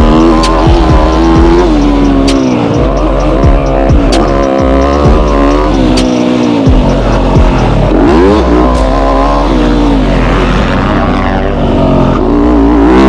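Yamaha YZ250F four-stroke single-cylinder dirt bike engine being ridden hard, revving up and falling off over and over as the throttle opens and closes, the pitch climbing and dropping every second or two.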